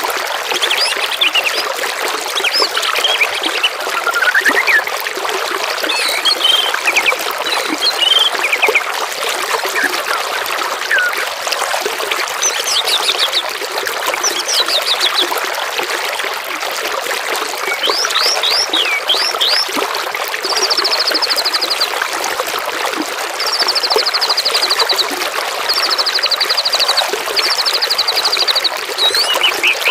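Running water trickling and babbling steadily, with songbirds singing over it in short chirps and quick runs of notes. In the second half come four rapid, even trills of about a second each.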